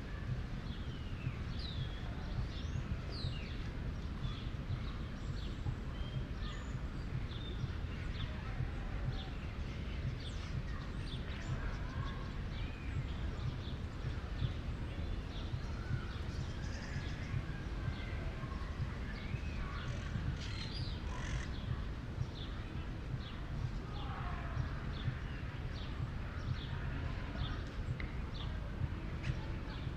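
Many birds chirping and calling in short, overlapping notes, over a steady low rumble of outdoor city background noise.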